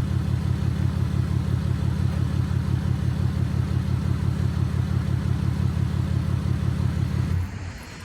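Vehicle engine idling with a steady low pulse, then switched off about seven seconds in, its sound cutting out quickly.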